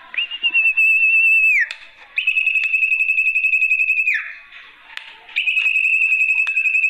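Sertu (zepo) bird lure call: three long, high, whistled notes with a fast trill, each held steady and then sliding down in pitch at the end, with short pauses between them.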